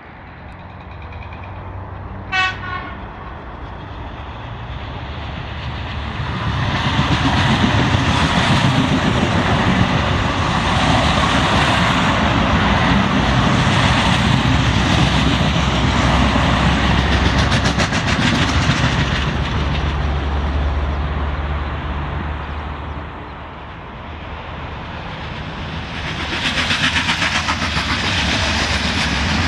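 Electric commuter trains on the line: a short horn toot about two seconds in. Then the loud rumble and wheel clatter of an electric multiple-unit train passing close, which fades briefly and swells again near the end with rapid wheel clicks.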